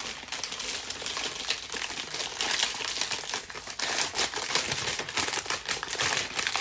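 Plastic biscuit wrapper crinkling continuously as a packet of Tim Tams is unwrapped, loud and crackly.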